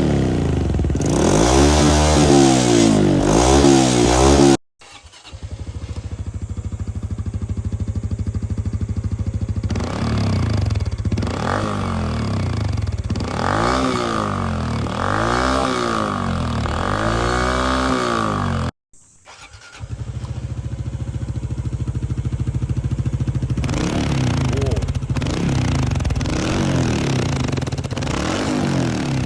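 Honda CT125 Hunter Cub's single-cylinder engine through aftermarket exhaust mufflers, running with the throttle blipped again and again so the exhaust note rises and falls. Three separate recordings follow one another with abrupt cuts about four and a half seconds in and again near nineteen seconds, each a different muffler.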